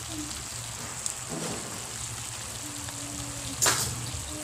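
Pinakbet vegetables sizzling in a wok, a steady frying hiss over a low hum, with one short sharp clatter a little before the end.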